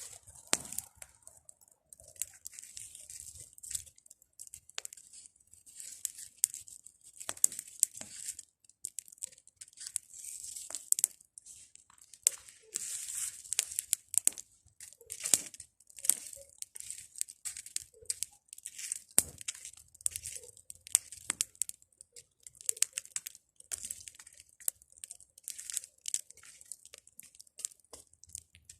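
Bonfire of pruned tree branches crackling, with irregular sharp pops over a steady high hiss.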